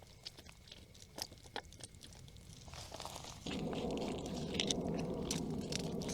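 A few light clicks of camp gear being handled, then about halfway through a steady low rushing starts suddenly: water running or pouring from a gravity-hung water bag.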